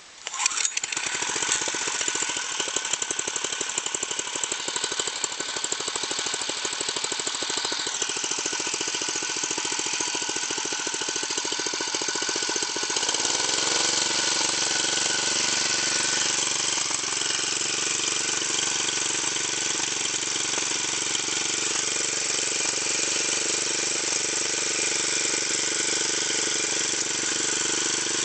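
Honda G150 single-cylinder engine on a Mitsubishi MyBoy MMR60 catching right at the start and running with a fast, even firing beat. About halfway through it changes speed and settles into a steady, even run.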